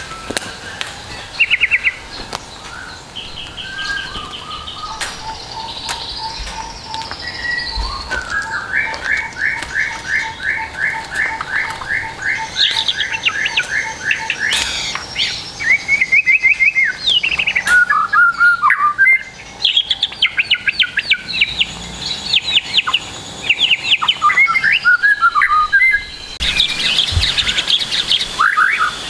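Several songbirds singing together in a recorded training track of filler songs for a young white-rumped shama: a long run of quick, evenly repeated notes over a lower, slower series of chips, then varied fast whistled phrases and chatter.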